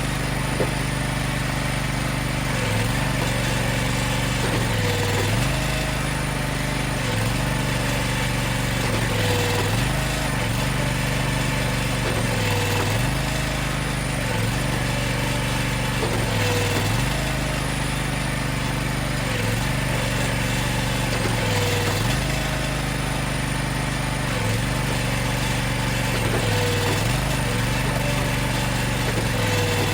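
Gas engine of an Allwood Musclewood hydraulic log splitter running steadily, its pitch dipping briefly and recovering about every two seconds as it takes load.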